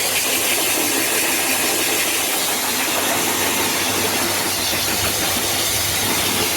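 Self-service dog wash blow dryer running steadily on its high-powered setting, a loud even rush of air with a low motor hum.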